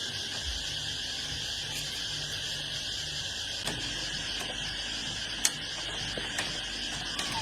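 A steady high hiss with a few scattered sharp clicks, the loudest about five and a half seconds in.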